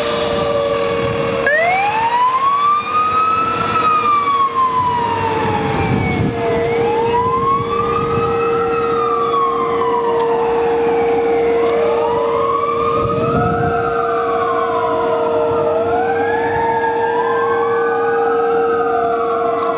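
Fire truck sirens wailing, each rising and then falling slowly, with two or more overlapping in the second half, over a steady held tone.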